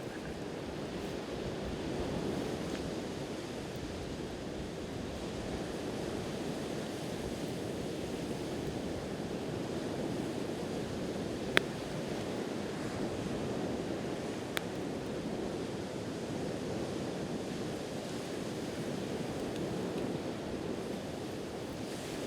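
Steady wash of ocean surf, with two sharp pops from a wood campfire, one about halfway through and another about three seconds later.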